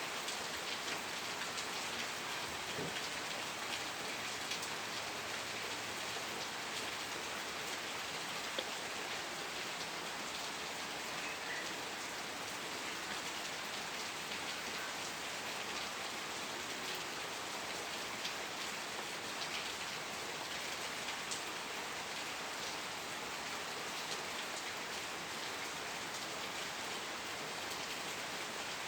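Steady rain falling, with a dense patter of drops striking a surface.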